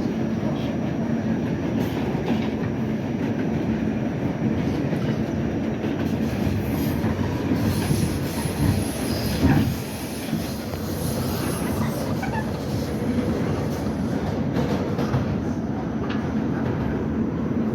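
R68 subway train running on the rails, with steady wheel and track noise and clickety-clack over rail joints. A faint high wheel squeal comes in from about the middle, and there is a brief louder knock partway through.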